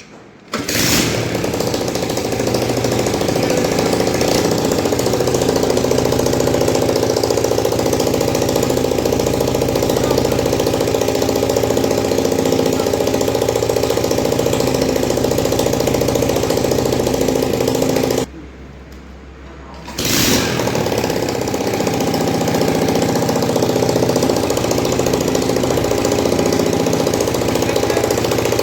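TVS Star City 100 cc four-stroke single-cylinder petrol engine starting and running steadily at idle. About 18 seconds in it stops abruptly, and it starts and runs again under two seconds later.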